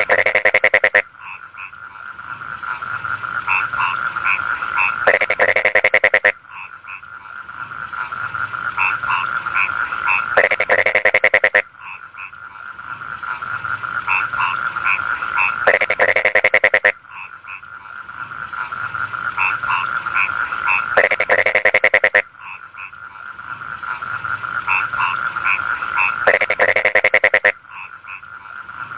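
Rice-field frogs croaking: a steady chorus, with a loud rapid rattling croak that lasts about a second and comes back regularly about every five seconds.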